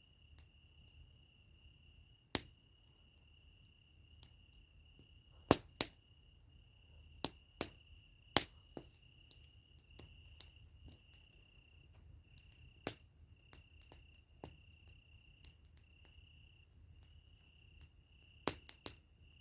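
Campfire crackling: burning wood giving sharp pops and snaps at irregular intervals, several louder pops a few seconds in and a pair near the end. A steady high trill comes and goes in short stretches throughout.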